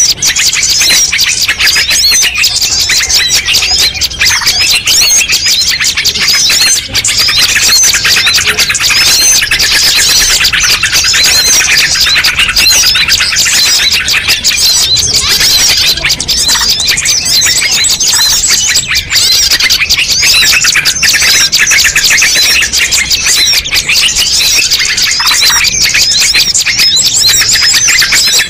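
A dense, loud chorus of many small birds chirping and twittering at once, rapid high notes overlapping without a break: a mixed bird-lure (pikat) recording meant to call in all kinds of birds.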